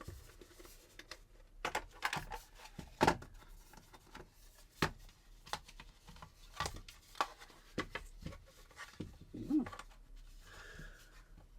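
Irregular clicks and knocks of a plastic ultrasonic diffuser housing being handled and opened up, with the loudest knock about three seconds in.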